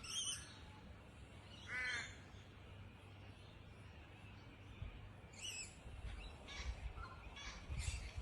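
Wild birds calling in separate short calls. There is a sharp high call at the start, a loud harsh caw-like call about two seconds in, and a cluster of further calls in the last few seconds.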